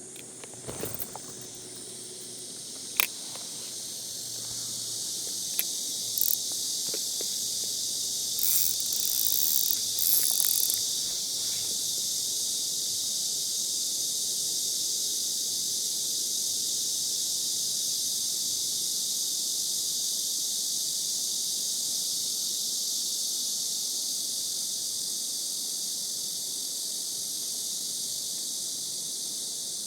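A dense, steady, high-pitched summer insect chorus. It swells over the first few seconds and then holds level. A few sharp clicks and short rustling noises come in the first ten seconds or so.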